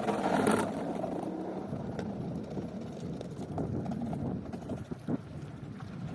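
Snow plow vehicle running steadily, with a few scattered light knocks.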